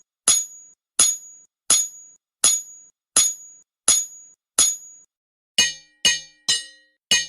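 Ringing metallic strikes at a steady pace, about one every 0.7 seconds, each a sharp hit with a short high ring. Midway through they change to a fuller-toned strike coming faster, about two a second.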